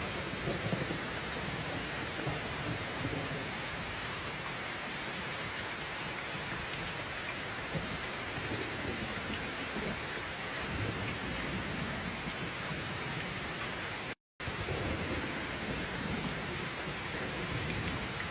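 Steady heavy rain pouring down, with low thunder rumbling in the background at intervals. The sound cuts out completely for a split second about fourteen seconds in.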